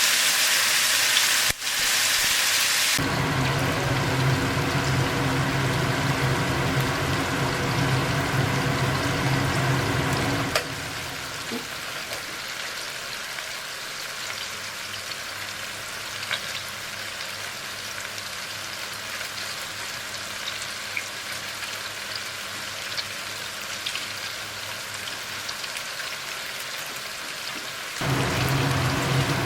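Food frying in hot oil in a pan: a steady sizzle with scattered crackles and pops. It is louder, with a low hum under it, for the first ten seconds or so. It drops to a quieter sizzle and swells again near the end.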